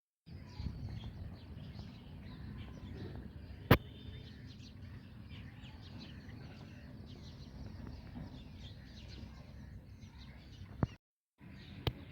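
Bulbul calling: many short chirps and twitters over a steady low rumble, with one sharp click about four seconds in. The sound cuts out briefly near the end.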